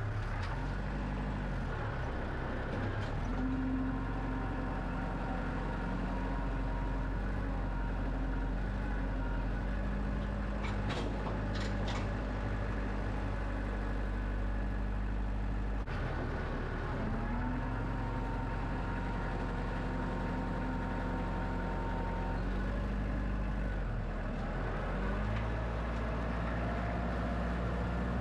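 Engine of a Wood-Mizer LX25 portable band sawmill running steadily, its pitch shifting up and down several times as the load changes. A few light clicks come about eleven to twelve seconds in.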